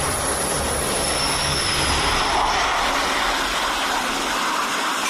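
Jet aircraft engine running: a steady rushing noise with a faint high whine above it.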